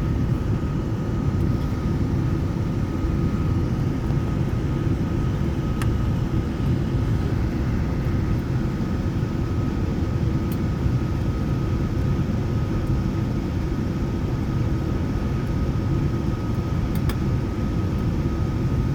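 Steady low rumble of a Lufthansa Boeing 747-8 at low power, with a thin steady whine running through it and a few faint clicks.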